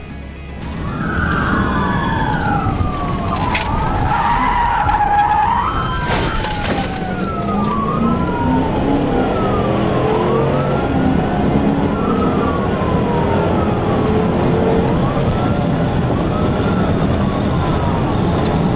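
Police car siren wailing, its pitch rising and falling every couple of seconds, over a patrol car's engine accelerating hard and steady road and wind noise. In the first few seconds more than one siren sweep overlaps.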